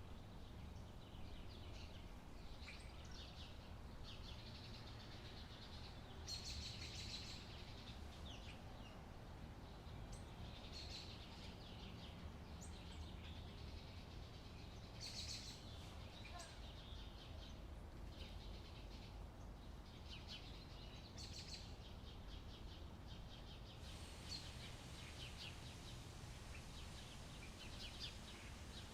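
Birds chirping in short, scattered calls over a faint, steady low background rumble.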